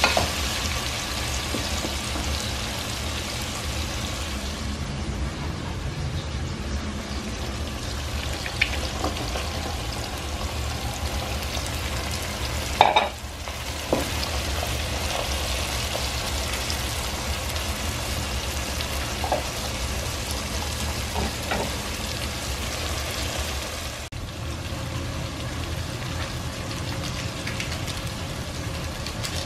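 Sliced bottle gourd, tomato and onion sizzling in hot oil in a pot, stirred with a wooden spatula, with a steady low hum underneath. One short loud knock about halfway through.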